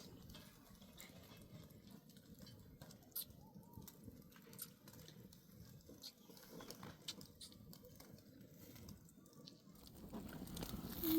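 Faint pattering and rustling with scattered small clicks and taps; a louder hiss builds near the end.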